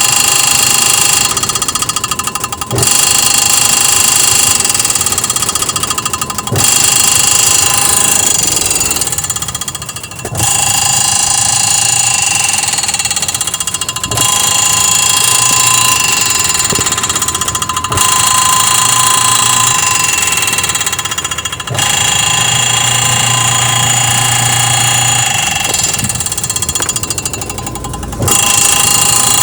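Panasonic automatic washing machine spinning with a loud metal noise that changes abruptly every few seconds. The technician traces the noise to its gearbox.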